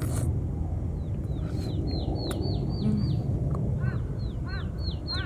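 Songbird singing a fast run of short down-slurred whistles, about three a second, beginning about a second in, with a series of lower arched call notes joining near the end, over a steady low rumble.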